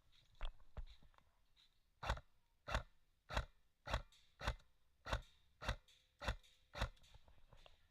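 A steady series of about nine sharp crunching impacts, roughly one every 0.6 seconds, with a couple of fainter knocks before them.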